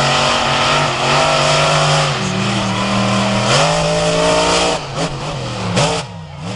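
Monster truck engine running at high revs, loud and steady, its pitch stepping up twice, then breaking off and wavering up and down near the end.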